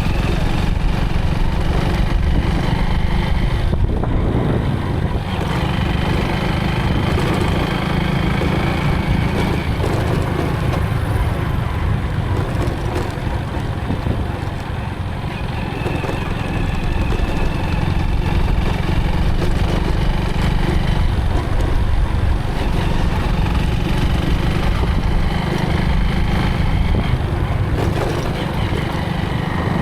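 Motorcycle engine running while riding, with a steady low rumble throughout.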